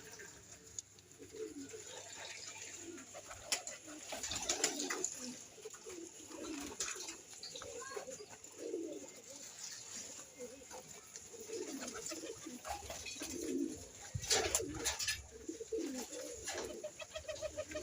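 Several pigeons cooing, overlapping low warbling coos throughout, with scattered clicks and a brief flurry of sharper sounds a little after the middle.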